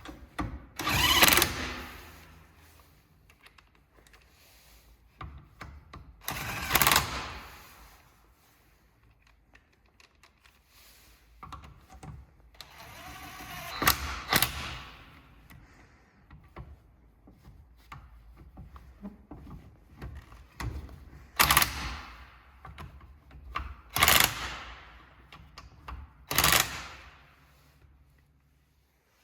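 DeWalt DCF892 1/2-inch mid-torque cordless impact wrench hammering in about six short bursts of roughly a second each, with quieter gaps between them.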